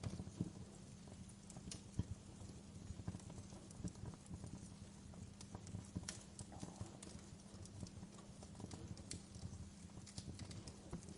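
Wood fire crackling in a fireplace: irregular small pops and snaps, a louder one about two seconds in, over a steady low rumble of the burning.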